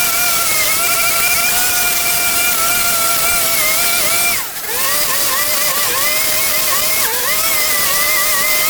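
Small petrol engine of a yard power tool running at high revs with a high, wavering whine. About halfway through it drops off for a moment, then revs back up.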